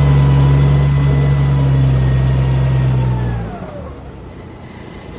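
FD80 diesel forklift's engine running steadily under load as it drives forward in first gear, with a faint high whine alongside. About three and a half seconds in the engine eases off and the whine falls in pitch with it.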